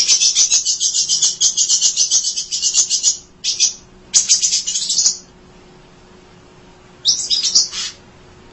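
An emprit songbird chattering its fast, high song in three close bursts, the first about three seconds long, then after a pause a shorter burst near the end.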